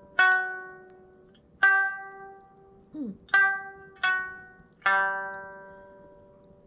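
Sanshin, the Okinawan three-stringed lute, played slowly: five single plucked notes, each ringing out and fading before the next.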